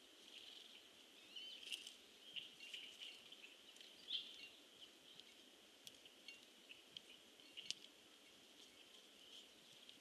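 Faint, scattered short bird chips and calls, all at about one high pitch, with a few sharp ticks among them over a soft hiss.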